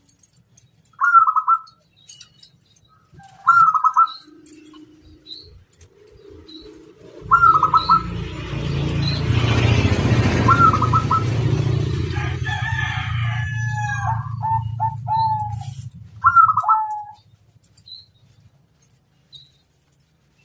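Zebra dove (perkutut) calling in short repeated phrases, a few seconds apart. Through the middle a steady low rumble with a hiss rises and then stops, and under it comes a quick run of lower, falling notes.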